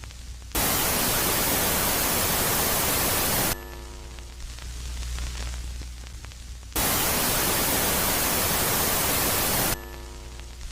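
Electronic space-ambience audio presented as the sound of Jupiter's moon Megaclite, alternating between a quiet phase and a loud phase. The quiet phase is a low hum with faint steady tones. Twice it is cut by loud white-noise static lasting about three seconds, which switches on and off abruptly.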